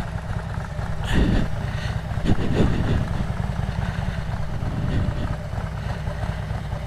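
Harley-Davidson Road Glide's V-twin engine running while the motorcycle rides along, a steady low rumble.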